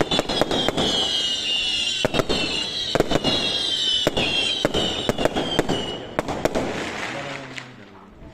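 A traca, a chain of firecrackers, going off: many sharp bangs in quick, uneven succession, with a high whistle sliding slowly down in pitch. The bangs and whistle stop about six and a half seconds in and the sound dies away.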